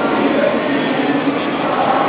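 Dense hubbub of a large crowd's voices echoing inside a big church, steady and unbroken, with a few faint held voice tones showing through.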